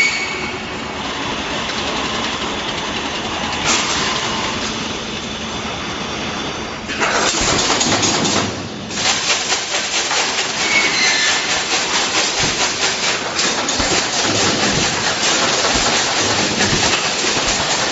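Automatic wire mesh welding machine running: a steady mechanical noise that, about seven seconds in, turns into a louder, fast rhythmic clatter.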